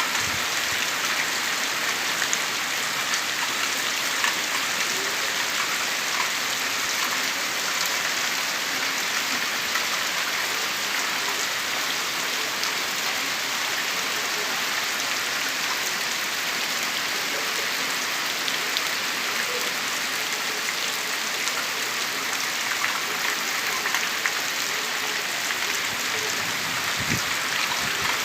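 Heavy rain falling steadily, a dense even hiss with scattered drops pattering.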